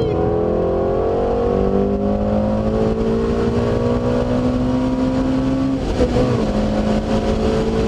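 Car engine under hard acceleration heard from inside the cabin, its pitch rising steadily as the car gathers speed. About six seconds in the pitch breaks and drops with an upshift, then climbs again.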